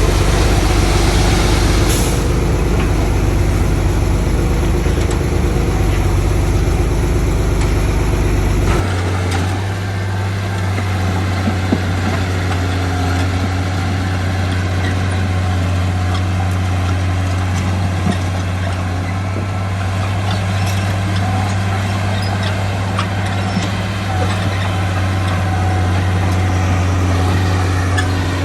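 Heavy diesel construction machinery running at work, a loud low engine drone that changes abruptly about nine seconds in to a steadier, evenly pitched drone. A short sharp sound comes about two seconds in.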